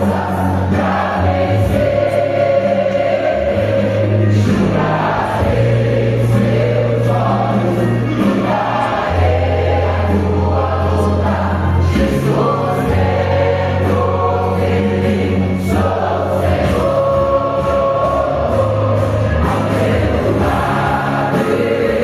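Church choir singing a gospel song over instrumental accompaniment, with long-held bass notes that change every second or two.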